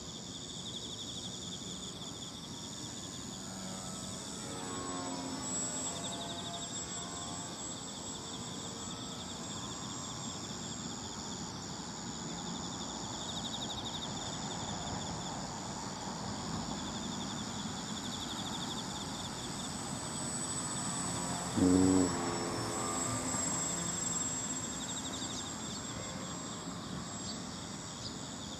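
Radio-controlled model aircraft flying past twice, its engine's pitch sweeping as it goes by: a fainter pass about five seconds in and a close, loud pass a little past twenty seconds. Insects chirp steadily throughout.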